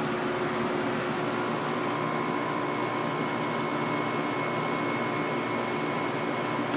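8000 BTU LG window air conditioner running on cool with the fan on low and its rotary compressor just started: steady rushing air noise with a faint steady hum and whine.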